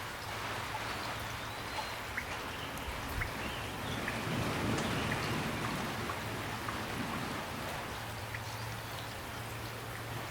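Steady rain, with separate drops ticking through it; it swells a little around the middle.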